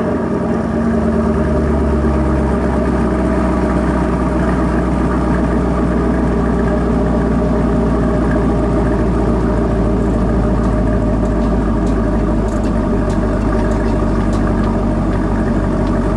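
2016–18 Chevrolet Camaro engine idling steadily.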